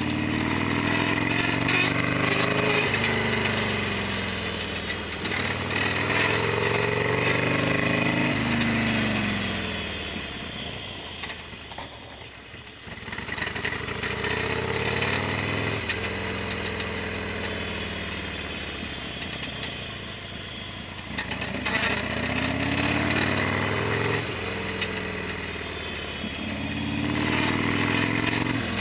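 Harley-Davidson Sportster XL1200R's V-twin engine under way, repeatedly climbing in pitch and dropping back as it pulls through the gears. It eases off to a quieter low point about twelve seconds in, then runs steadily before pulling up again.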